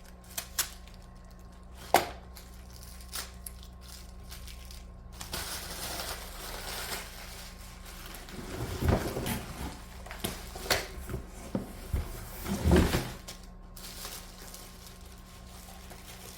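Plastic vacuum attachments and their packaging being handled: scattered sharp clicks and knocks, then rustling with a few heavier thumps near the end.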